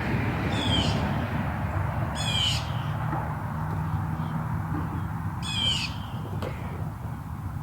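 A bird gives three short, harsh, high-pitched calls, spaced a few seconds apart, over a steady low rumble.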